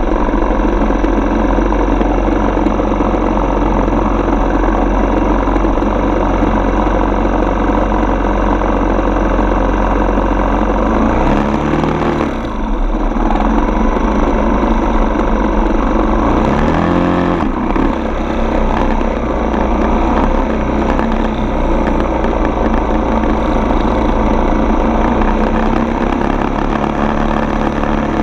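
Single-cylinder four-stroke dirt bike engine running steadily while riding. The engine pitch dips and comes back up twice near the middle, as with gear changes or throttle changes.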